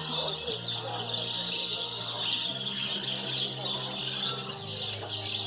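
Many caged canaries chirping and singing at once in a dense, continuous chorus, with low held notes of background music underneath.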